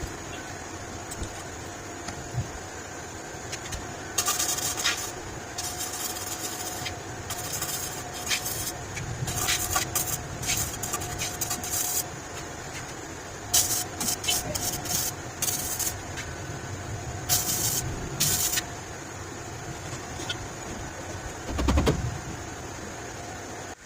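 Welding on a motorcycle exhaust silencer band: the weld hisses in a series of short runs of one to two seconds, stopping and starting, over a faint steady hum.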